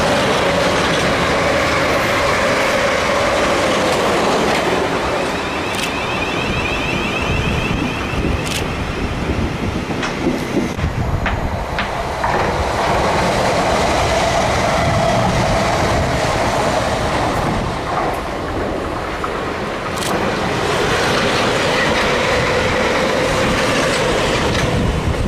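South Western Railway electric multiple units passing one after another, first a Class 444 at speed, then a Class 450, then another unit close by: a steady rumble of wheels on rail with clickety-clack over the joints and a whining traction-motor tone. The whine sinks and fades about four seconds in, comes back as the next train passes, and builds again near the end.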